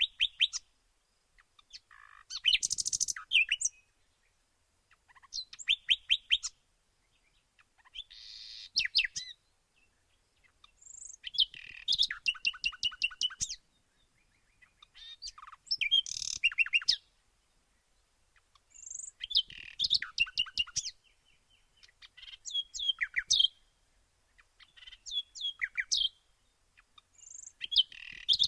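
Songbird singing: short phrases of quick high chirps and trills, each about a second or two long, repeated roughly every three seconds with clean pauses between them.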